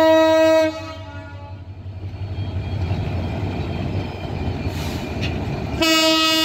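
Train horn sounding a long steady note that stops just under a second in, then the rumble of a moving train, then the horn sounding again near the end.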